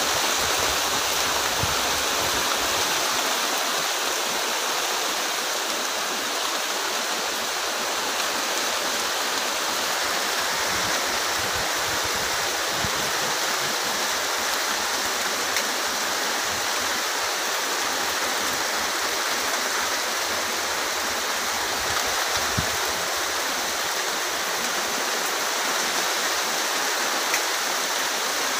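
Heavy rain falling steadily in a dense, even hiss, with a few sharper drop hits standing out now and then.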